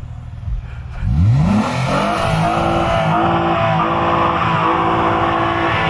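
Car engine revving up about a second in, its pitch rising quickly, then held at steady high revs.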